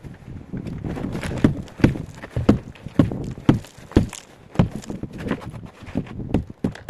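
A run of sharp clicks or knocks in an even rhythm, about two a second, over a low rumbling noise, like hoofbeats.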